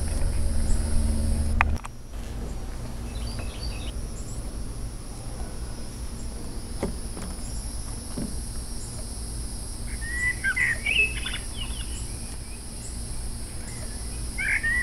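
Music cuts off about two seconds in, leaving outdoor ambience of steady low rumble and high hiss. A bird chirps in quick rising and falling notes about two-thirds of the way through and again near the end.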